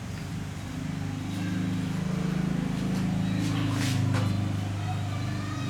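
Motorbike engine running steadily. It gets louder about a second in, and a couple of short clicks come near four seconds.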